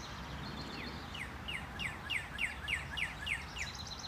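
A songbird singing a quick run of about ten short, falling notes, about four a second, starting about a second in, over a steady low background noise.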